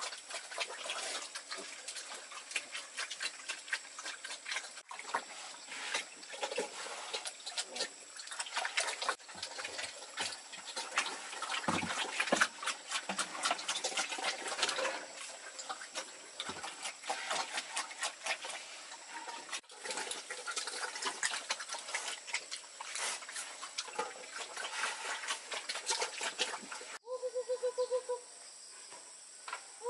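Pigs eating wet feed: a dense, continuous run of chomping and slurping. Near the end it gives way to a short run of rapid pulsed animal calls.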